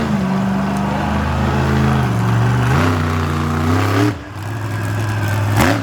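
Monster truck engine revving hard, its pitch rising and falling with the throttle, then dropping away sharply about four seconds in before picking up again. A short loud burst of noise comes near the end.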